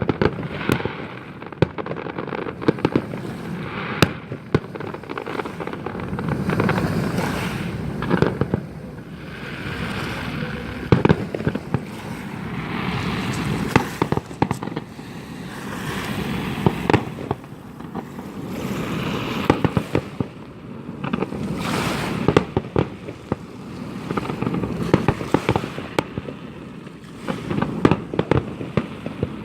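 Fireworks display: a continuous run of sharp bangs and crackling, over a rolling rumble that swells and fades every few seconds.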